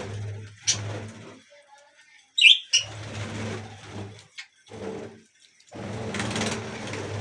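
Budgerigars chirping, with two sharp high chirps about two and a half seconds in, over a low buzzing hum that cuts in and out several times.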